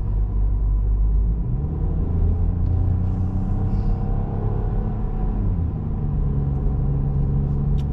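Car engine pulling hard up a steep mountain road, heard from inside the cabin as a steady low drone. Its pitch changes about a second and a half in and again near six seconds as the revs or gear change on the climb.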